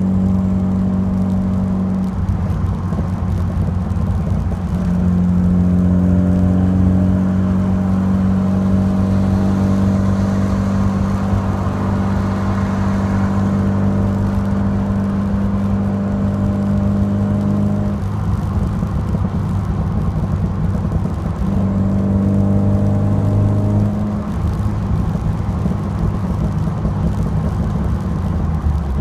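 Alfa Romeo Alfasud Sprint QV's 1.5-litre flat-four boxer engine running through a stainless steel exhaust, holding a steady low note that shifts slightly in pitch several times.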